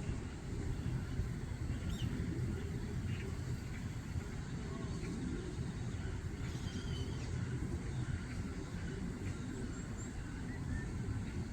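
Steady low outdoor rumble, like distant traffic or wind, with a few faint short bird chirps about two, seven and ten seconds in.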